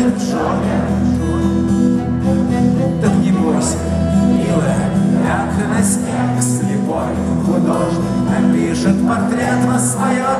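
Rock band playing live: sustained guitar chords and bass with repeated cymbal crashes, an instrumental passage between sung lines.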